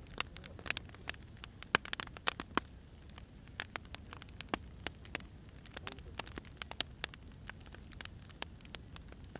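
Firewood burning, crackling with irregular sharp snaps and pops over a low steady rumble. The pops come thickest in the first few seconds and thin out later.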